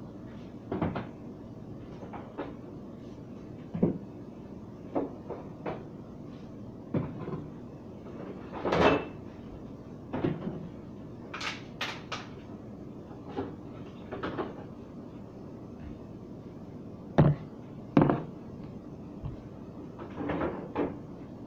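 Bottles and jars being taken out of refrigerator door shelves and set down one by one: a string of separate knocks and clunks every second or two, with louder clatters about nine seconds in and twice more near the end.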